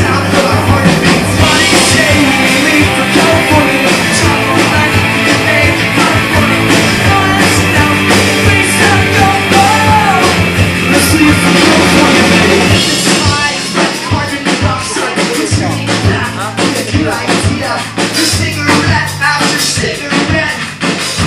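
Rock band playing live at full volume, with a steady beat between sung lines.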